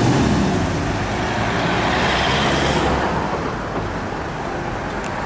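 Road traffic: car engine and tyre noise, fairly steady, swelling slightly about two seconds in as a car passes.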